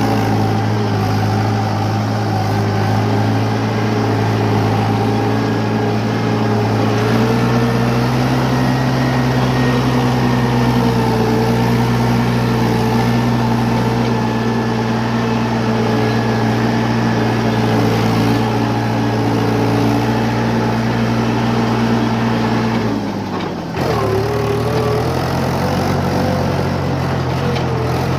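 Mahindra 575DI tractor's four-cylinder diesel engine running at high revs under load, hauling a sand trolley through wet mud. The revs rise a little about seven seconds in, drop sharply for a moment near the end, then pick up again.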